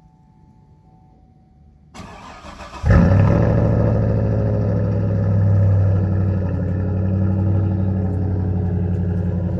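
A 2003 Chevy Silverado's engine cranked on the starter in freezing cold. It catches after about a second of cranking and settles into a loud, fast cold-start idle, with a brief swell in revs about three seconds after it fires.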